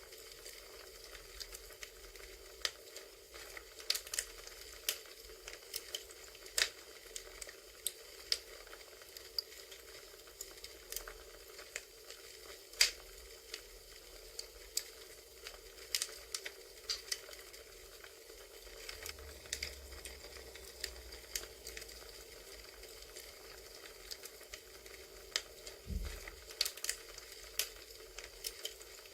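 Crackling wood fire: irregular sharp pops and snaps over a steady soft hiss, with a brief low thump near the end.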